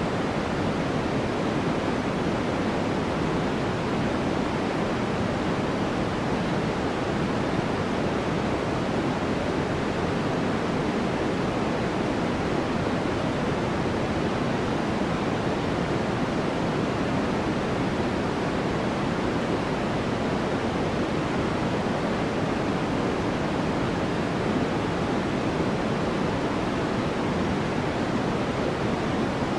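Continuous steady white noise for sleep, unchanging, with its weight in the lower-middle range and a soft top end, closer to pink noise than flat hiss.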